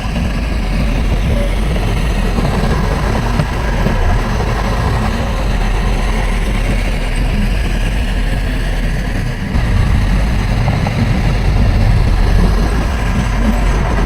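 Heavy diesel engine of earthmoving machinery running under load, with a brief dip about two-thirds of the way through before it comes back a little louder.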